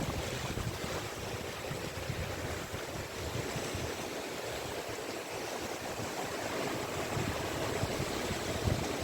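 Sea waves washing onto a beach in a steady hiss of surf. Gusts of wind rumble on the microphone near the start and again near the end.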